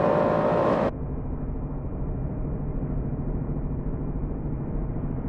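Motorcycle engine running steadily under wind noise while riding. About a second in, the sound abruptly turns muffled and duller, leaving a steady low engine hum.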